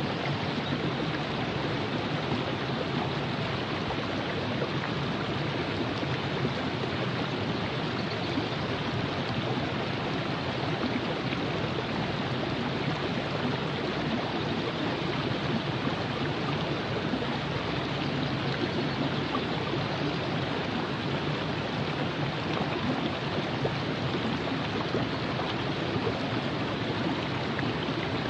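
River water flowing and rushing steadily over rocks, a constant even rush with some gurgling.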